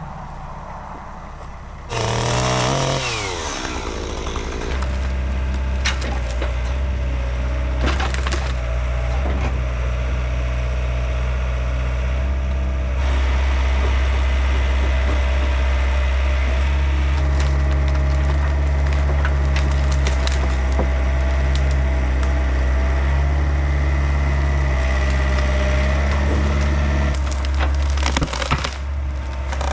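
A diesel engine of compact construction machinery runs steadily and loudly. It comes in suddenly about two seconds in with a falling sweep of pitch, then settles into a deep steady drone, with a few sharp knocks and creaks over it.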